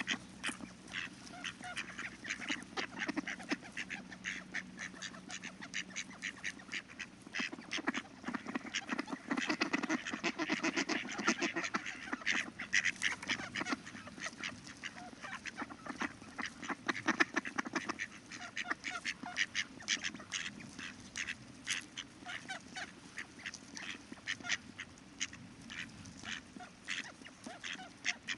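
Ducks quacking, many short calls in quick succession, busiest around ten seconds in.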